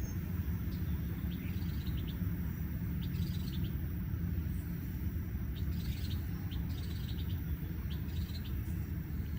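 Birds chirping in short clusters of quick high notes, several times, over a steady low rumble.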